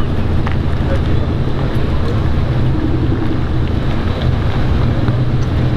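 A steady low rumble mixed with wind noise on the microphone.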